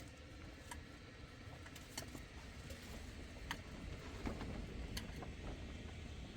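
Scattered sharp clicks and taps, a handful over several seconds at uneven spacing, over a steady low rumble.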